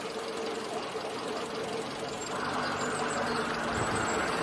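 Car engine running with steady mechanical noise; from about halfway a broader rush of noise comes in and grows louder.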